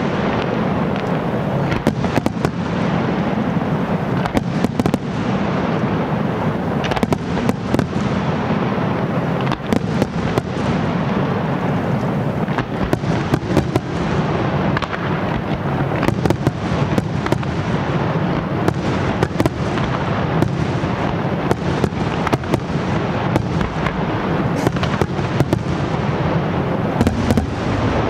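Fireworks display: aerial shells bursting in a dense, continuous barrage. Many sharp bangs and crackles come close together over a steady low rumble, with no pause.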